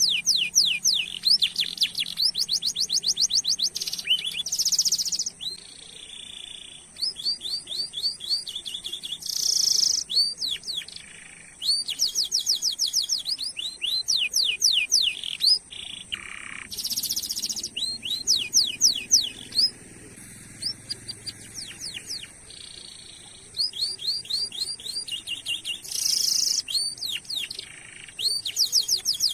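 Domestic canary singing: trains of fast repeated chirps alternate with short buzzy rolls, broken by brief pauses, the longest about two-thirds of the way through.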